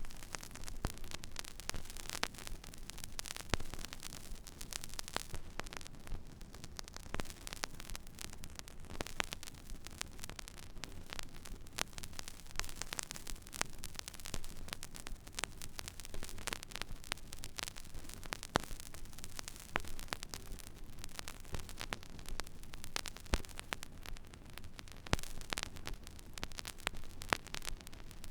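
Stylus riding an empty vinyl record groove: steady surface hiss with a dense, irregular crackle of clicks and pops over a low hum.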